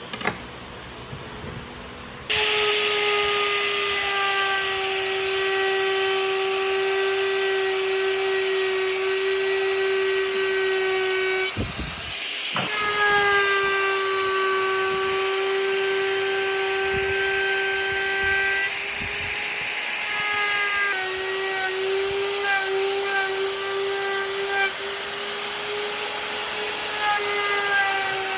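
A high-speed electric power tool motor starts about two seconds in and runs with a steady high-pitched whine over a hiss. It cuts out briefly near the middle and starts again, and its pitch wavers a little later on as the tool is worked.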